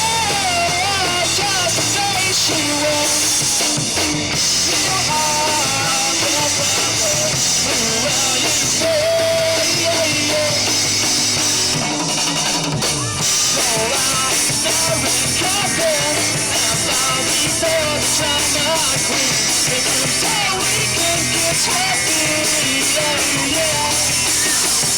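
Live rock band mid-song: drum kit, electric guitars and bass playing loud and steady, with a wavering melody line over the top.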